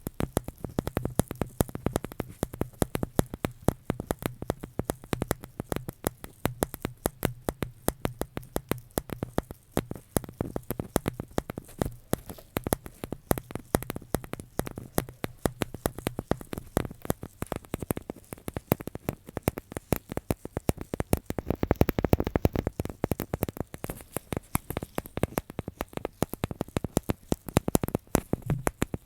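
Close-miked ASMR trigger sounds: dense, irregular clicks and taps, many a second, with a faint low hum under the first half.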